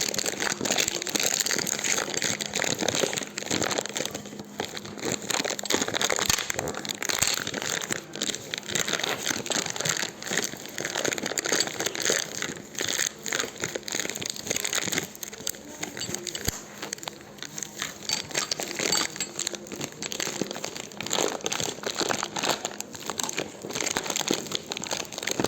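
Campfire burning with dense, irregular crackling and popping of the wood.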